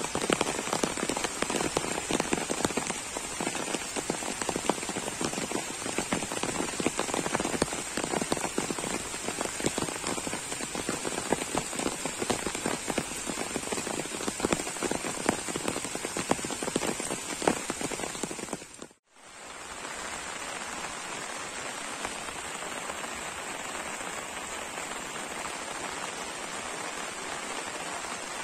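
Heavy rain pouring down, a dense patter of many drops. The sound cuts out abruptly for a moment about two-thirds of the way through, then returns as a smoother, slightly softer hiss.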